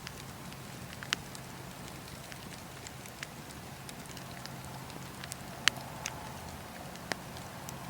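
Wood fire crackling in a fireplace: scattered sharp pops and snaps, the loudest about two-thirds of the way through, over a low steady rumble of the burning.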